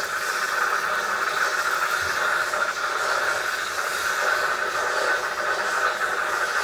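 A steady, unchanging hiss of rushing air or steam, from the tool defrosting the iced-up freezer evaporator.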